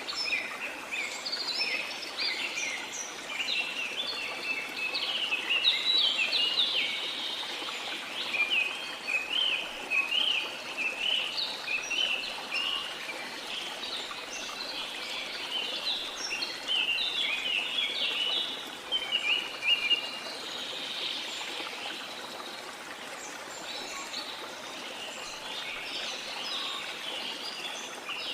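Waterfall's steady rush of water under a dense chorus of rainforest birds chirping and singing. The calls come thick and overlapping, thin out about two-thirds of the way through, and pick up again near the end.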